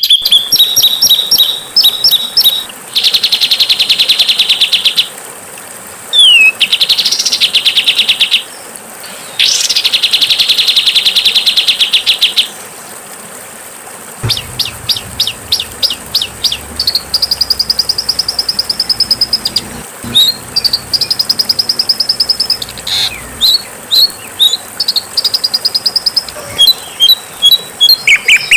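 Songbird song from a bird-training recording: two long, harsh, buzzing trills in the first half, then from about halfway a run of quick repeated chirps and short trilled phrases.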